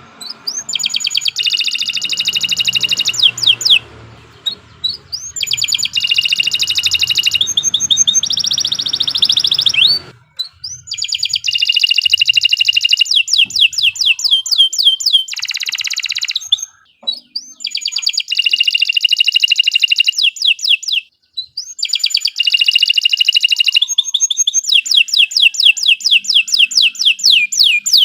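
Domestic canary singing a long, vigorous song: phrases of very fast repeated trilled notes, high-pitched, separated by short pauses of under a second.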